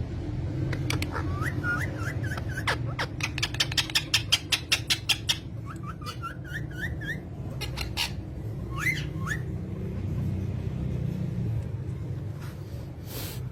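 A bird whistling in series of short rising chirps, with a fast run of sharp clicks around the middle, over a low steady hum.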